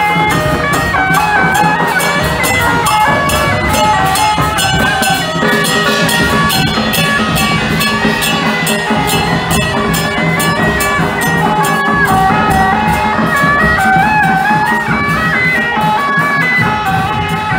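Suona (Chinese shawm) playing a loud melody over drums and cymbals: traditional Taiwanese temple procession music.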